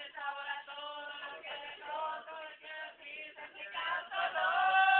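Voices singing, with long held notes near the end.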